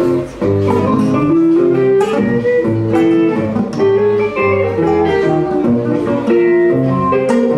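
Instrumental music: a guitar plucking a quick, busy melody over lower bass notes, without a break.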